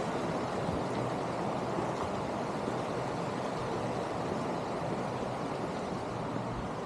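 Steady rushing of a mountain creek, an even wash of water noise with no distinct splashes.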